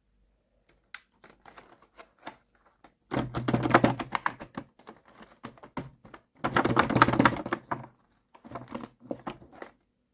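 Small plastic toy pieces being handled: scattered clicks, then two longer spells of rapid, dense clicking and rattling, with a few more clicks near the end.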